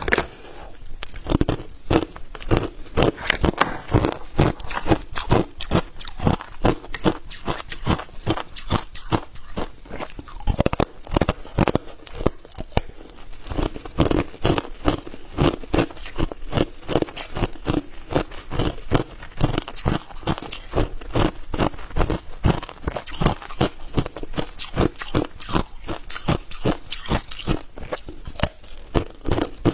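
Hard ice cubes being bitten and chewed close to the microphone: a rapid, continuous run of loud crunches, several a second.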